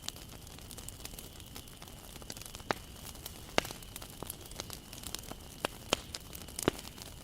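Wood fire burning: a steady faint hiss with irregular crackles and sharp pops from the burning wood, a few louder snaps scattered through.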